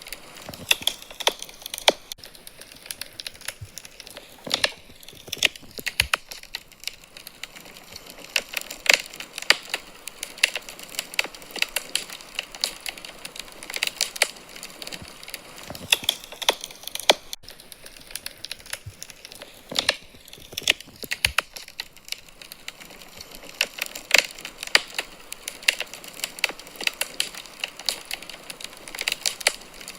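Wood fire crackling in a fireplace: irregular sharp pops and snaps over a faint steady hiss.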